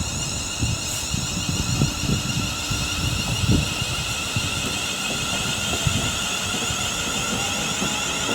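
Class 350 Desiro electric multiple unit pulling out of the station: a low rumble from the train, with steady high-pitched whining tones above it, the rumble thinning out in the last couple of seconds.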